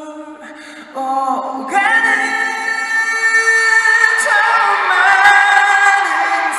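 Live singing without accompaniment, long held notes that step up and grow louder about a second in and again near two seconds in.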